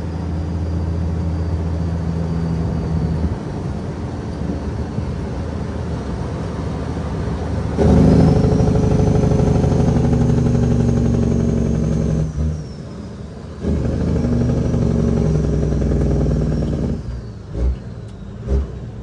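Caterpillar 6NZ diesel in a heavily loaded Kenworth W900L running under load. The engine note swells loudest about eight seconds in, drops away for a second or so around twelve seconds, as between gear changes, then picks up again before easing off with a few knocks near the end.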